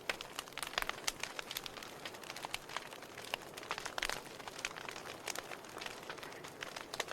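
Wood fire crackling: a steady hiss of burning broken by many irregular sharp pops and snaps, a few louder ones along the way.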